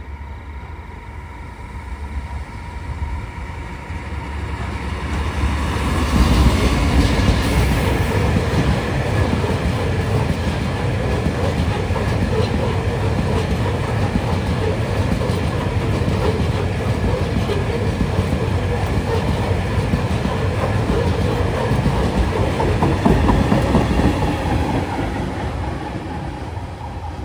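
Tasrail cement train passing close by: its rumble builds over the first several seconds as it approaches, then a long steady run of cement hopper wagons rumbling and clattering over the rails. The train swells once more shortly before the end, then eases off.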